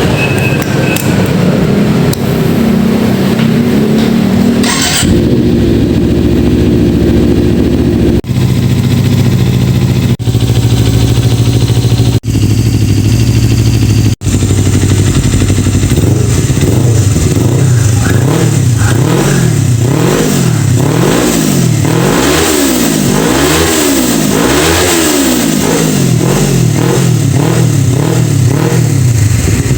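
Kawasaki Ninja 250 FI parallel-twin engine running through an Akrapovic carbon exhaust: first held at a steady speed, then revved up and down repeatedly, about once a second, in the second half.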